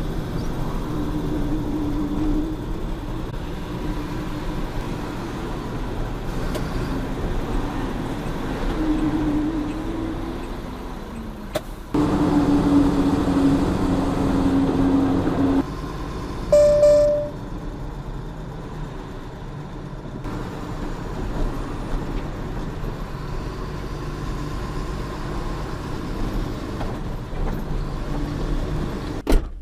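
Truck engine and road noise from inside the cab while driving, a steady drone whose level jumps up suddenly about twelve seconds in and drops back a few seconds later. A short, loud, pitched tone sounds for about a second just past the middle.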